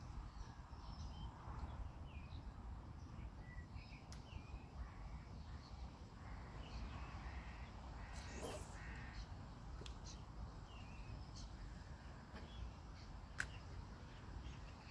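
Birds calling faintly, many short scattered calls with a louder, rougher one about eight seconds in, over a low steady outdoor rumble; a couple of sharp ticks.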